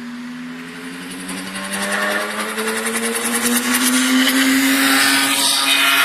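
2014 Ferrari 1.6-litre turbocharged V6 Formula 1 engine accelerating at high revs. Its pitch rises slowly and it grows louder over the first few seconds, then holds loud.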